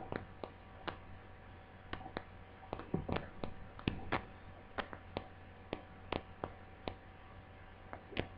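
Irregular small clicks and taps, about twenty over the few seconds, of small tools and laptop parts being handled during a DC jack repair, over a faint steady hum.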